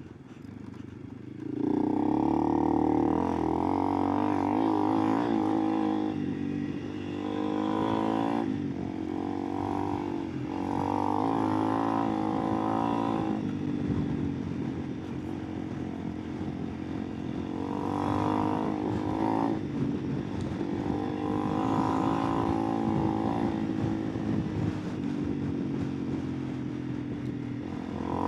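Honda CRF300 Rally's single-cylinder four-stroke engine on the move, opening up about a second and a half in, then its pitch repeatedly climbing under throttle and dropping back at gear changes and throttle-offs.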